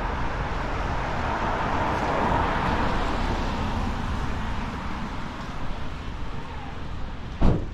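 A car passing by on the street: the tyre and engine noise swells to its loudest about two to three seconds in, then fades away. A brief sharp knock comes near the end.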